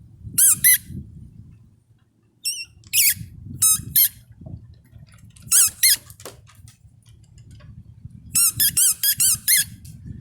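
Huskies giving short, high-pitched yips in clusters: two near the start, a handful around three to four seconds in, two more a little later, and a quick run of about six near the end. Wind rumbles on the microphone underneath.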